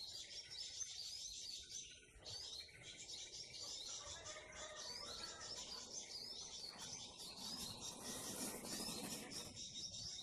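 Many small birds chirping busily, a dense chatter of rapid, high, repeated chirps with no pause. A soft rushing noise swells under them from about seven to nine and a half seconds.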